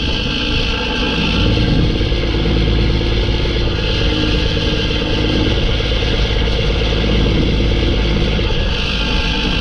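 Mack E7 inline-six turbo diesel in a Mack CH612 truck running steadily, with a high turbo whistle over the engine that is strongest at the start and again near the end.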